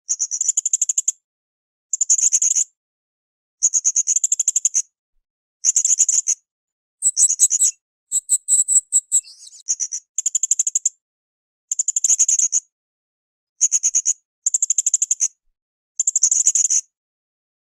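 Srindit (hanging parrot) singing in full voice: short, rapid, high-pitched trills of clicky notes, repeated about every two seconds. Near the middle, a couple of phrases change to a different, higher pattern.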